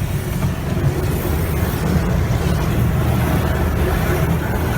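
High-pressure rinse jets of a tunnel car wash spraying the car, heard from inside the cabin as a steady, heavy rush of water and machinery, a little noisy.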